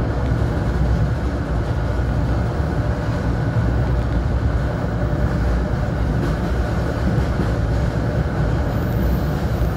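Steady running noise of an NJ Transit commuter train moving at speed, heard from inside the passenger car.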